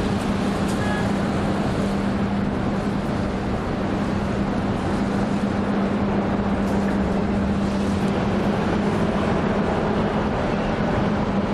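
Steady loud rumble of a cruise ship's machinery, with a constant low hum running through it.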